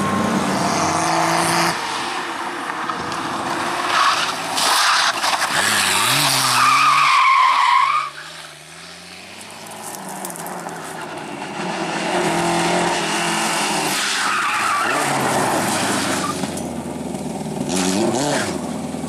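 Rally car engines revving hard and changing gear, with tyres squealing as a car slides, about six to eight seconds in. The sound drops off suddenly at about eight seconds, then another engine builds up and runs through the rest.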